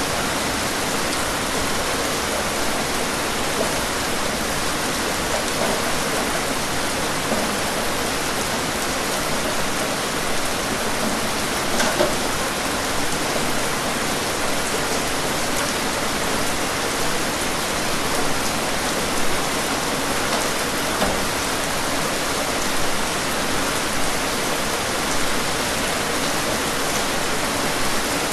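Steady rain falling, an even hiss that holds constant throughout, with a few louder drops standing out, the clearest about twelve seconds in.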